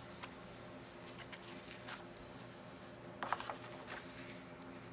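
Faint paper rustling and handling of crafting paper, a few scattered light rustles and taps, with a small cluster a bit over three seconds in, over a steady low hum.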